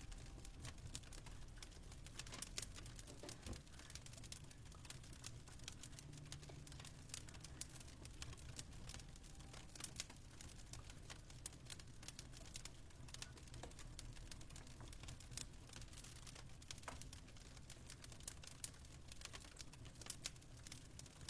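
Faint crackling of a wood fire: irregular sharp snaps and pops over a low steady rumble.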